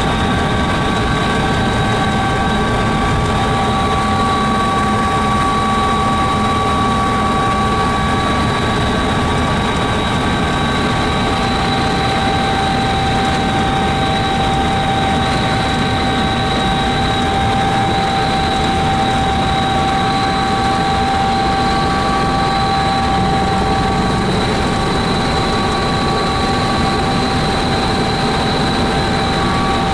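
Helicopter in flight heard from on board: a steady, loud drone of engine and rotors with constant high whines over it.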